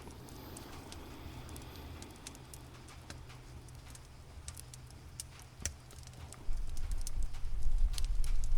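A cat purring, a low steady rumble that grows much louder about six and a half seconds in, with the scattered sharp pops of a crackling campfire.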